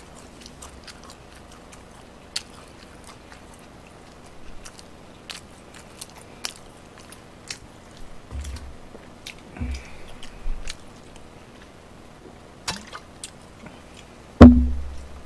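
Close-miked chewing of braised pig's trotters and glazed fried chicken: scattered wet mouth clicks and smacks. A loud thump about 14.5 seconds in is the loudest sound.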